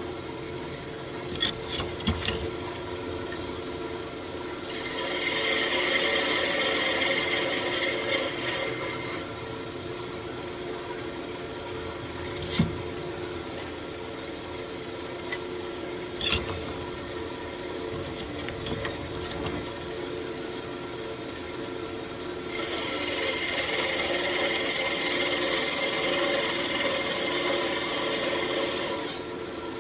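Wood lathe running with a steady motor hum while a spinning walnut blank is worked. Twice, for several seconds each (about five seconds in, and again from about 22 seconds until just before the end), there is a loud hissing rasp of steel or abrasive on the turning wood, with a few sharp knocks in between.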